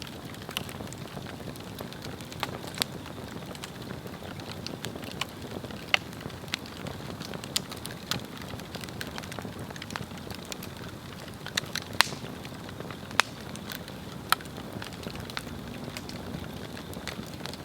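Swedish torch log fire burning, a steady soft rush of flame with frequent sharp crackles and pops at irregular intervals, the loudest about two-thirds of the way through.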